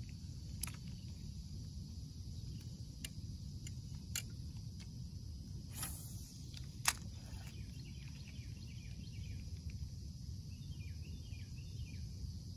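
Open-air lake ambience: a steady low rumble with a few sharp clicks or knocks scattered through it, the loudest about seven seconds in, and faint high chirps near the end.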